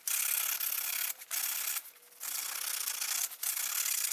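Hand abrasion, in long scraping strokes with short pauses between them, smoothing down a jagged edge so it won't cut into a new handlebar grip.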